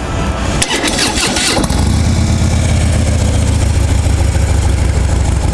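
2014 Harley-Davidson Street Glide's 103 cubic inch V-twin cranking on the starter and catching about a second and a half in, then idling steadily through its stock factory exhaust, which runs pretty quiet.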